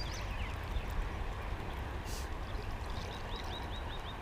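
Steady rush of river water. About three seconds in, a small bird starts a rapid series of high, repeated chirps.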